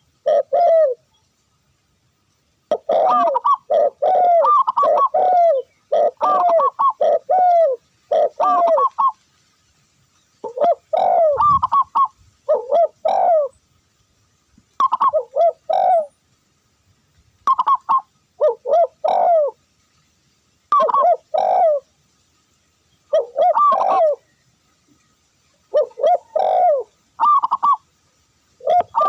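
Dove cooing in bursts of quick, bubbling coo notes, each burst lasting a second or two, repeated over and over with short pauses between them.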